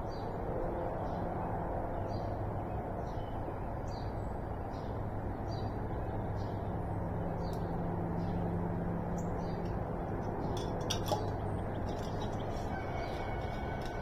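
Birds chirping in the dawn chorus, short high calls repeating about once or twice a second over a steady low hum, with one sharp click about three quarters of the way through.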